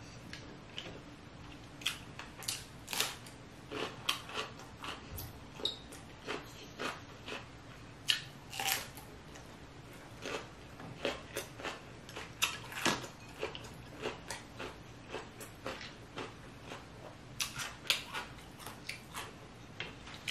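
Close-miked eating sounds from a person chewing lobster, snow crab and cucumber: irregular wet smacks and clicks of the mouth, several a second, with now and then a small crunch.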